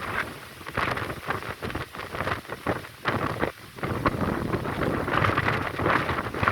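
Strong wind gusting and buffeting the microphone, rising and falling in uneven surges, louder in the second half.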